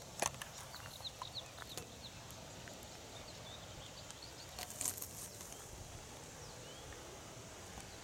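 Small birds chirping over a low rush of wind on the microphone, with many short high chirps scattered throughout. Two sharp clicks stand out, one just after the start and one about five seconds in.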